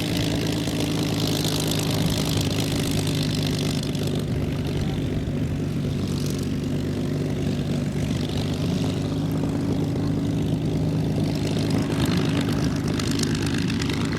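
Piston-engined propeller warbird running with a steady, loud drone; the higher-pitched part of the sound eases after about four seconds while the low engine note holds.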